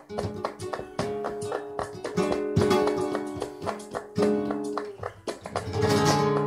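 Acoustic guitar played in a flamenco-rumba style, rhythmic strummed chords between sung verses.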